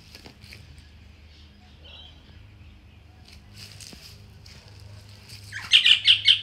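Steady low hum with faint scattered ticks and rustles, then near the end a bird chirping loudly in a quick run of about five notes.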